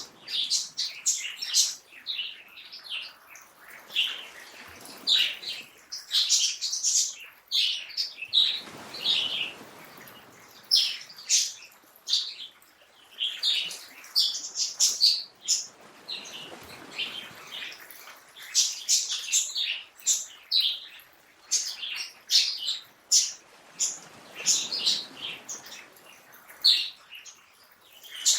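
Many songbirds chirping and singing in a dense chorus of quick, high notes. Under them is a soft rushing sound that swells and fades about every eight seconds.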